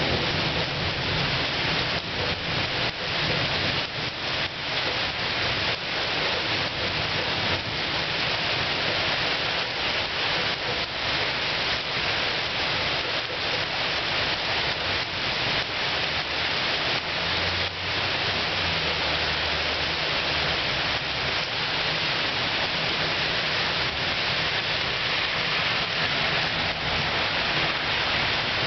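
Heavy rain falling steadily, with many close drops striking nearby surfaces, over a low rumble that swells for a few seconds about two-thirds of the way through.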